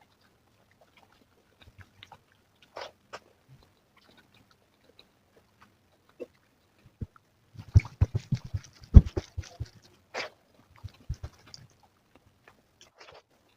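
Close-miked eating: sparse mouth clicks, then about seven and a half seconds in a dense run of chewing and smacking lasting around two seconds, followed by a few more clicks.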